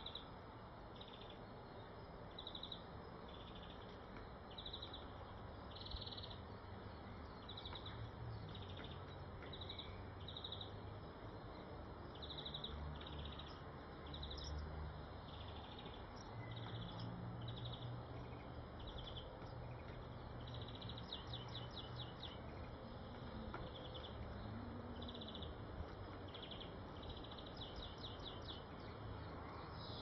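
Small bird chirping: short high calls repeat about once a second, some of them quick trills, over a faint low rumble.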